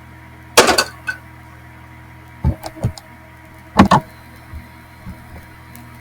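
A few sharp clunks and knocks, the loudest about half a second in and about four seconds in, with smaller taps between and after, over a steady electrical hum.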